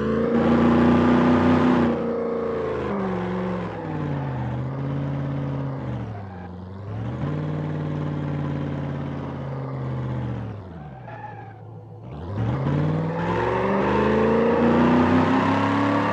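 Straight-piped exhaust of a Lincoln Town Car's V8, its pitch repeatedly falling and rising as engine speed changes. The pitch and loudness drop lowest about twelve seconds in, then climb again to full loudness.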